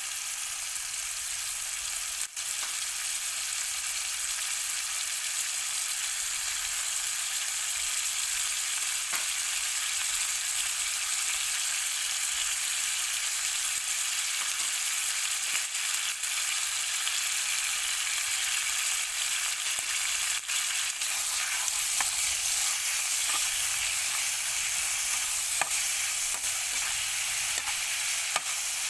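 Shrimp and minced garlic sizzling steadily in hot oil in a frying pan, with a metal spatula scraping and tapping against the pan now and then, more often in the second half.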